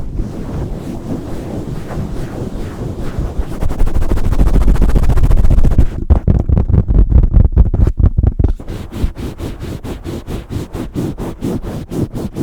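Hands working directly on a Blue Yeti microphone in fast, aggressive ASMR mic triggers: scratchy rubbing, then a heavy deep handling rumble about four seconds in, then quick regular strokes at roughly five a second.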